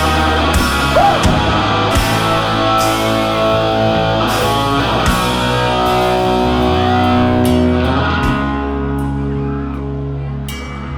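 Live rock band playing an instrumental passage: guitar over bass and drums, with cymbal crashes that drop out about eight seconds in.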